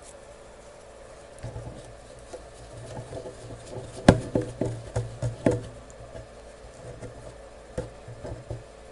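Light clicks and taps of small objects being handled, a cluster of sharper knocks about four to five seconds in, over a faint steady hum.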